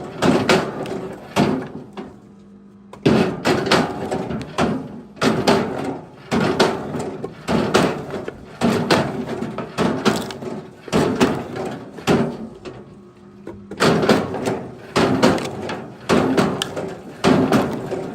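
Pieces of firewood knocking and thudding against wood over and over, irregularly, about one or two a second, with two brief pauses.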